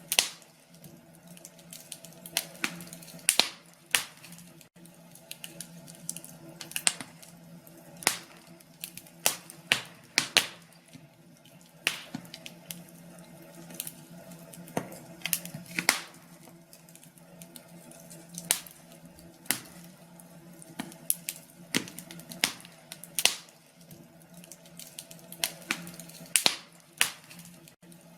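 Wood fire crackling in a fireplace: irregular sharp pops and snaps, sometimes a few in quick succession, over a faint steady low hum.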